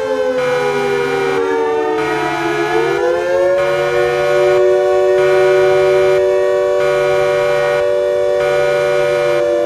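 Siren-like emergency alert alarm: a chord of several tones slides down and back up over the first few seconds, then holds steady. Under it, a lower tone pulses on and off about every second and a half.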